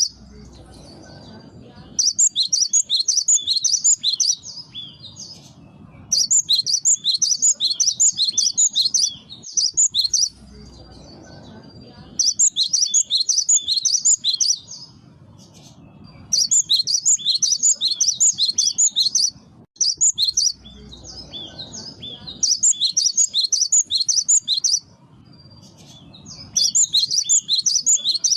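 Cinereous tit (gelatik batu) singing: bouts of rapid, high-pitched notes two to three seconds long, repeated again and again with short pauses between them, as a bird-lure recording.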